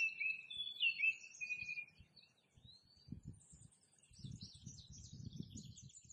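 Songbirds chirping and whistling: a few sliding whistled notes in the first two seconds, then a quicker run of high chirps from about four seconds in, over a soft low rumble.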